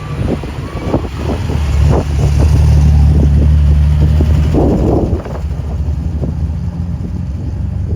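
Car engine running steadily, louder for about three seconds in the middle, with irregular knocks and buffeting over it.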